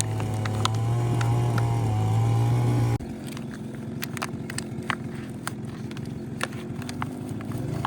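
A motor running steadily that cuts off abruptly about three seconds in, followed by scattered sharp clicks and knocks.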